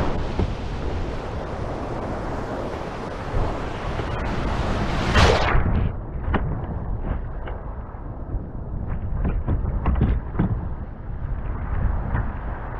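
Sea surf and wind buffeting the microphone in rough conditions, with one wave breaking loudly about five seconds in. After that the sound turns duller, with a scatter of short knocks.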